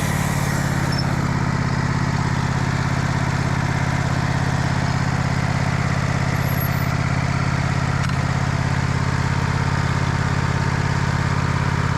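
Sawmill engine running steadily under heavy load as the band blade cuts through a big oak log. The mill is straining on the cut.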